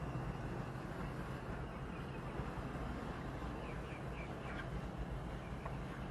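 Steady outdoor background hum with a few faint bird chirps a little past the middle.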